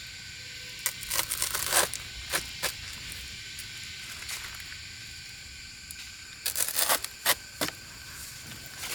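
Two short runs of crackling, scraping clicks, one about a second in and one near the end, over a steady high hiss of outdoor background.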